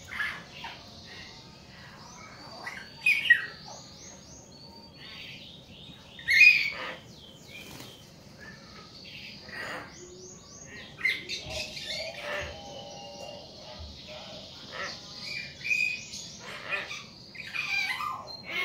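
Hill mynas calling: a string of sharp whistles, chirps and squawks, loudest about three and six seconds in.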